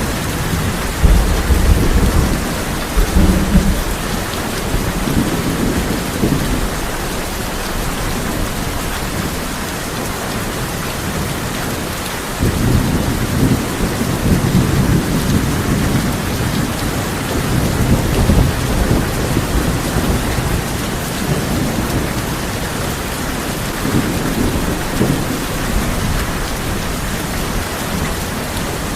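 Heavy rain falling steadily on a tin roof, with deep thunder rumbling about a second in and rolling again for several seconds from about twelve seconds in, and weaker rumbles later.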